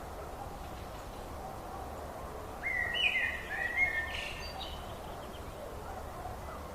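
Wild birds singing over a steady background noise, with one louder burst of quick chirps and short pitch glides from a single bird about halfway through.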